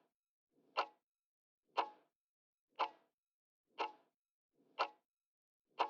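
Clock-tick countdown sound effect: six sharp ticks, one a second, with silence between them, timing the answer pause after a quiz question.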